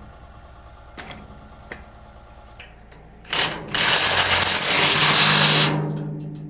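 A power impact wrench hammering for about two and a half seconds, starting about halfway in, as it tightens down a bolt. A few light tool clicks come before it.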